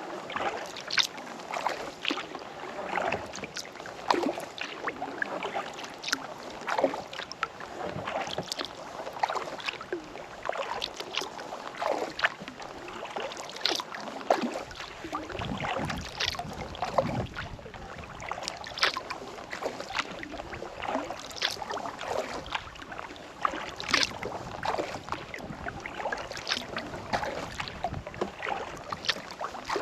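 Kayak paddle blades dipping and pulling through calm lake water, with many small irregular splashes and drips. A low rumble joins about halfway through.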